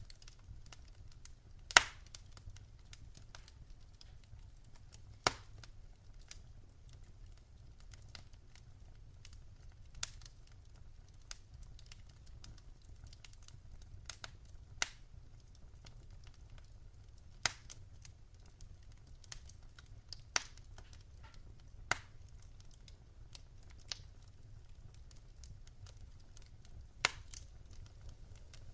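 Wood fire burning in a fireplace: irregular sharp crackles and pops from the burning logs, a few louder snaps standing out, over a faint low rumble of the flames.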